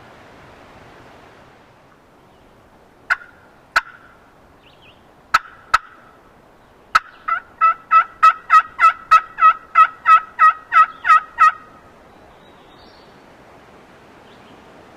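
Turkey calling: a few sharp single clucks spaced out, then a fast, even run of about fourteen yelps lasting around four seconds.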